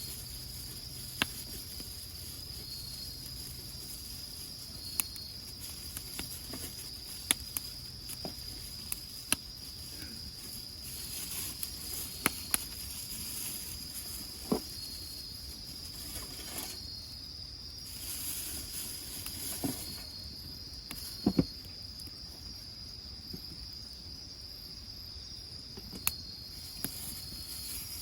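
Crickets or other night insects chirring steadily, with irregular sharp pops and crackles from the burning firewood in the grill, about a dozen in all.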